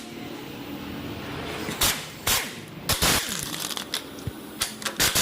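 Metal tools and engine parts clinking and knocking during engine teardown: a series of sharp, irregular strikes, coming faster in the second half.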